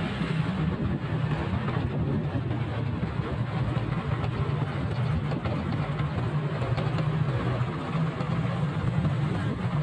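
Motorcycle engine running steadily at a low, even pitch, with rough road and wind noise over it.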